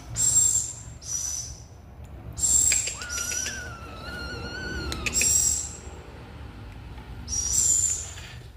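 Songbird calling: short, high, hissy notes in pairs, repeating about every two and a half seconds, with a longer wavering whistle in the middle.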